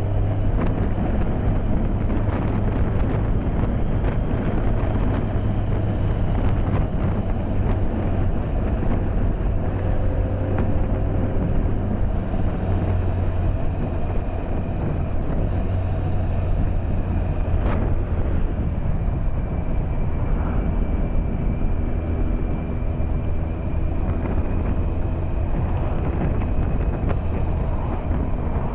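BMW K1200S inline-four engine running steadily under way, with wind rush, heard through a microphone inside the rider's helmet.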